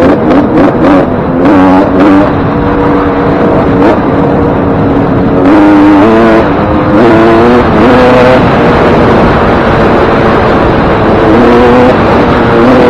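Suzuki RM125 two-stroke motocross engine being ridden, its pitch rising and falling several times with the throttle, on a freshly rebuilt top end with a new piston ring and wrist pin.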